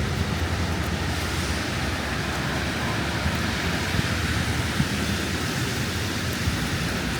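Steady outdoor city noise of traffic and gusting wind, with a low rumble of wind buffeting the microphone and a few faint knocks.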